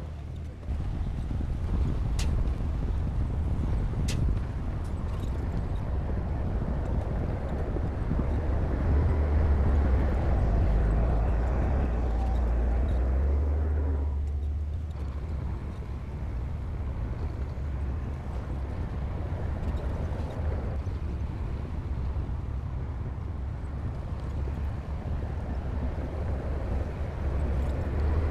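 Heavy diesel earthmoving machinery, a bulldozer at work, running as a steady low rumble that grows louder about nine seconds in and eases briefly around fourteen seconds. Two faint sharp clicks sound in the first few seconds.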